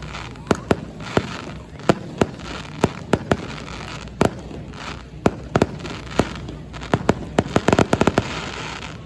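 Fireworks bursting overhead: sharp bangs at irregular intervals, then a rapid volley of bangs near the end.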